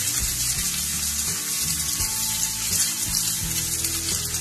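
Chopped onion and garlic sizzling steadily in hot oil in a wok over a high flame.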